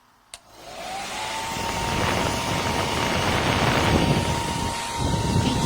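Remington Thermacare PRO 2300 hair dryer switched on with a click, its motor spinning up with a rising whine into a steady blowing rush.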